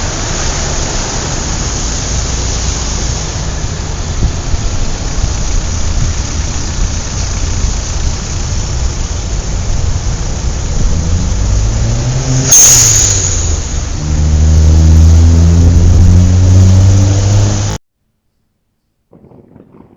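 Car engine revving up, its pitch rising, with a sharp click partway through, then running loud and steady at high revs before cutting off abruptly. Before the revving there is a steady hiss.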